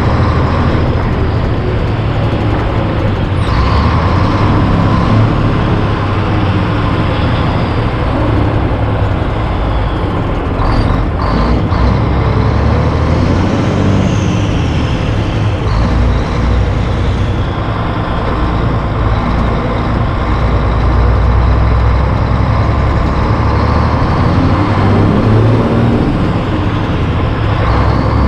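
Heavy diesel truck driving on the highway: the engine drones steadily under loud road and wind noise, with a short rising glide near the end.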